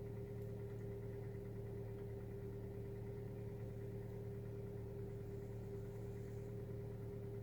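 Hyundai Solaris 1.4-litre four-cylinder engine idling steadily just after a cold start, at about 1100 rpm, with the knock the owner is demonstrating. He hears it best at 1000 to 2500 rpm while the engine is cold, and takes it for probably normal for modern engines with short piston skirts.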